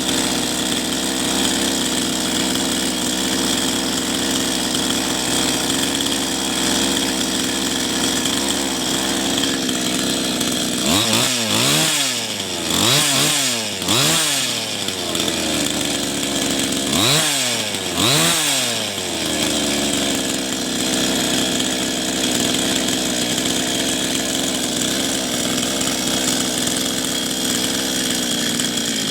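Small motorcycle engine idling steadily. About a third of the way in, the throttle is blipped in quick revs, three in a row, then two more a few seconds later, each pitch rising and falling back to idle.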